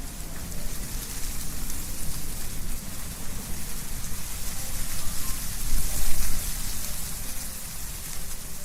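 Wind blowing through trees, leaves rustling in a steady hiss with low wind rumble; a stronger gust swells about six seconds in.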